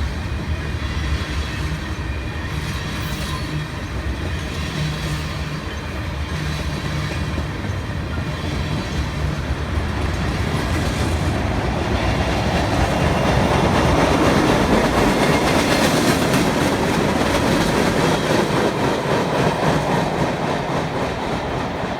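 A long freight train's cars rolling past on the rails, with a low rumble in the first half and the wheel-on-rail noise growing louder from about halfway through.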